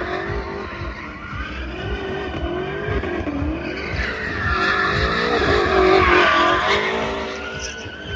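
A car's tyres squealing through a long skid or drift, the squeal wavering up and down in pitch and loudest about six seconds in, over a low engine rumble.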